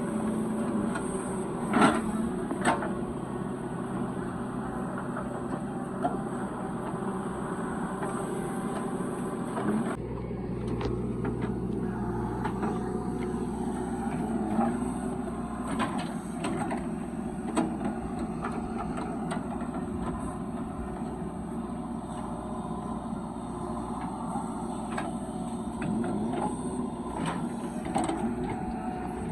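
Diesel engines of heavy machinery running steadily, with a few sharp knocks and clanks now and then. The engine sound changes abruptly about ten seconds in.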